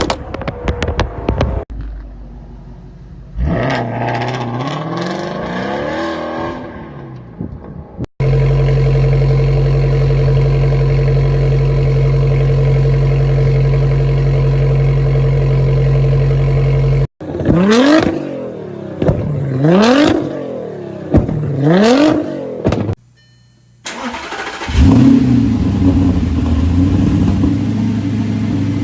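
Several different supercar engines and exhausts in quick succession. First a rapid string of sharp pops, then a free rev rising and falling, then a long, loud, steady engine note. Three quick throttle blips follow, each rising and falling in pitch, and after a brief gap an engine revs up and holds a steady loud note.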